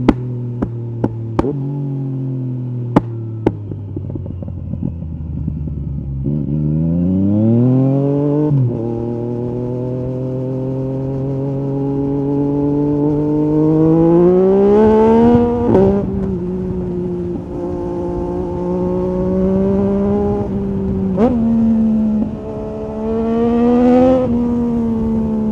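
Yamaha MT-09 SP's inline three-cylinder engine through an Akrapovic carbon exhaust with the dB killer out, on the move: revs fall for the first few seconds, then climb in two pulls, each dropping sharply at a gear change, then hold fairly steady with a quick blip and a last short rise near the end. Several sharp knocks sound in the first few seconds.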